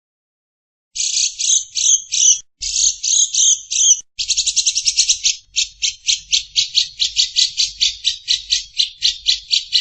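Recorded bird calls: a harsh, buzzy chatter starts about a second in, first in short bursts, then as a fast, even rattle of about four notes a second.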